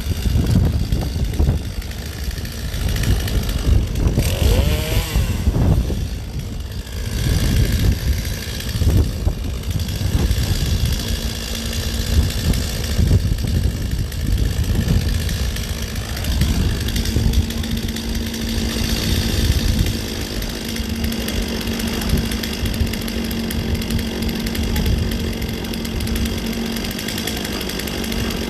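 Gas chainsaw running, its engine note swelling and dropping in the first half, then holding a steady pitch.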